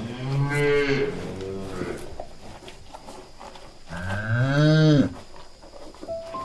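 A cow mooing twice. Each long, low call rises and then falls in pitch, the second about four seconds in.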